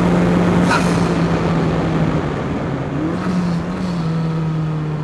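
Onboard sound of the Ariel Atom 4's turbocharged Honda Civic Type R 2.0-litre four-cylinder engine running hard on track, with a haze of wind noise. The engine note holds steady, eases about two seconds in, rises briefly just past three seconds, then settles a little lower.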